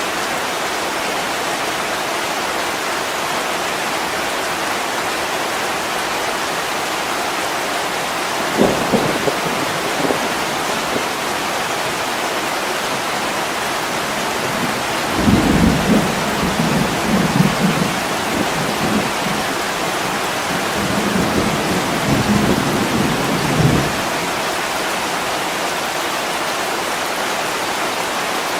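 Heavy rain pouring on a window, a steady hiss, with low rolls of thunder rumbling about eight seconds in and again for several seconds from about fifteen seconds in.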